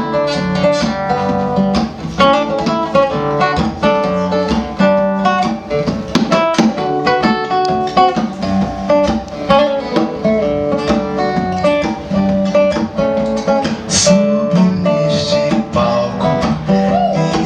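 Instrumental guitar passage: acoustic guitar picking and strumming a melodic run of plucked notes, with no singing.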